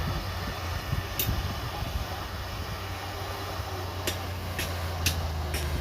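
Diesel engine of heavy earthmoving machinery running steadily with a low hum, with a few sharp metallic clicks about a second in and several more near the end.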